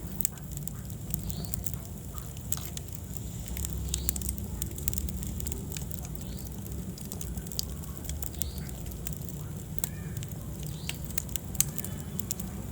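Wood fire burning in a fireplace: a low steady rumble of flames with scattered sharp crackles and pops, one louder pop near the end.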